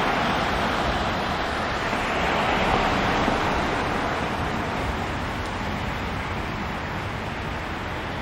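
Street traffic noise: an even hiss of tyres and engines on the road that slowly fades.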